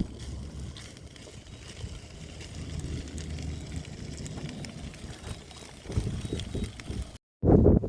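Campfire burning: scattered small crackles over a low, steady rumble.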